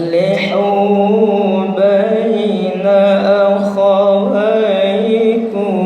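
A man reciting the Quran in a melodic tilawah style, drawing out one long phrase with ornamented, wavering turns of pitch.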